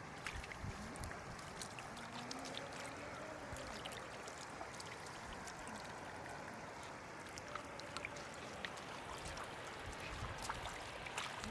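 Floodwater running and trickling steadily, with scattered small splashes and clicks.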